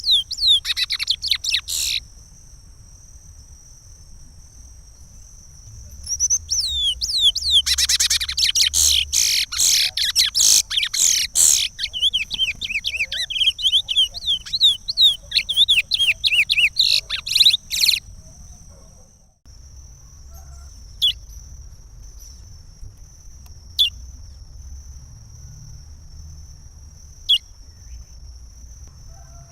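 Chestnut-bellied seed finch (curió) singing in the Pará regional song type. A short phrase of fast sweeping whistles opens, then after a pause of a few seconds comes a long phrase of rapid whistled notes lasting about twelve seconds, followed by a few single notes spaced about three seconds apart.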